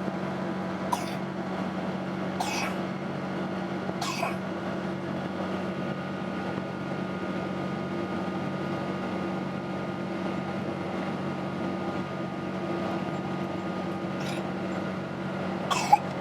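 Steady drone of a Boeing 777-200 in flight, heard from inside the cabin, with several constant hum tones from the engines and airflow. A few brief clicks or knocks cut through it, twice close together near the end.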